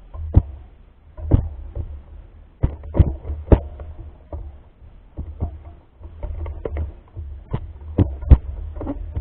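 Mountain bike jolting over rough ground: irregular sharp knocks and rattles, a few a second, over a steady low rumble.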